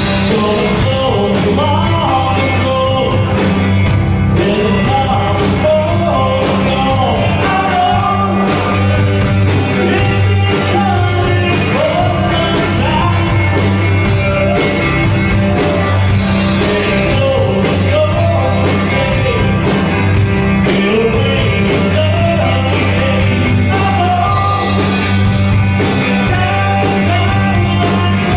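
Rock song with a lead vocal over guitar, bass and a steady drum beat.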